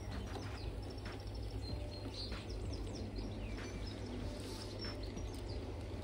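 Garden birds chirping in short, scattered calls over a steady low rumble.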